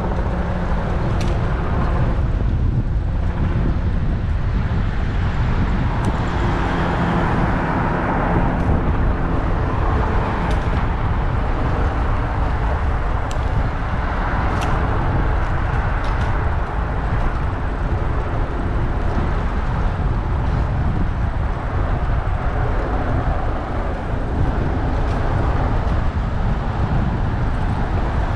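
City traffic and wind rumble picked up by a camera on a moving bicycle: a steady low rumble with passing vehicles and a few sharp clicks.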